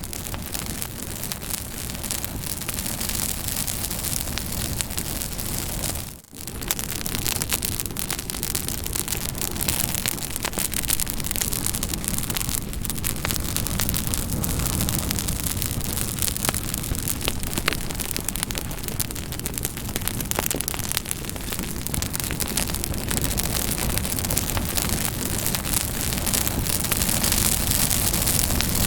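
Campfire burning with dense crackling and popping of wood over a steady hiss. The sound dips briefly about six seconds in.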